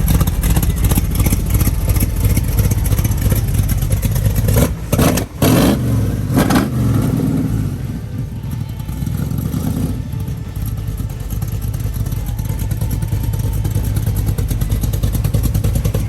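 A loud engine idling with a deep exhaust rumble, with a few sharp throttle blips about five seconds in.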